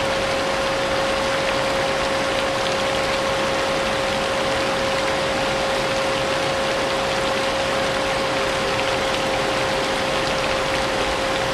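Vacuum cleaner running steadily, its motor whine holding one pitch, mixed with the hiss of steady rain.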